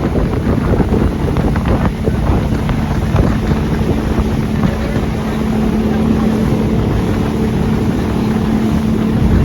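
Motorboat engine running steadily underway, a constant hum over rushing water, with wind buffeting the microphone.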